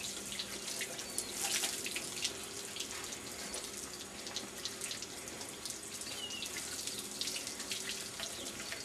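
Water running and splashing, with scattered drips and splats, as a car is washed by hand.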